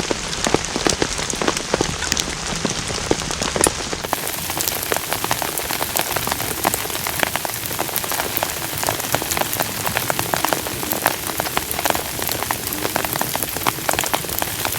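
Heavy rain falling steadily, with many individual drops striking close by. About four seconds in, the sound turns brighter and hissier.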